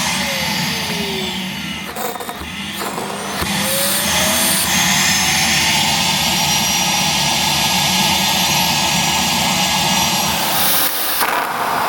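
Roomba Clean Base auto-empty station's suction fan running with a loud, steady rush. It dips about two seconds in, then spins back up with a rising motor pitch.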